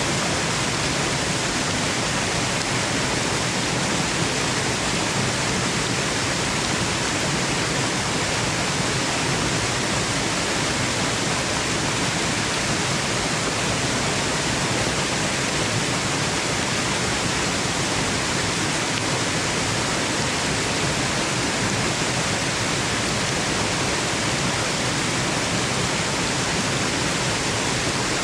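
Steady, even rush of a waterfall, continuous with no breaks or changes in level.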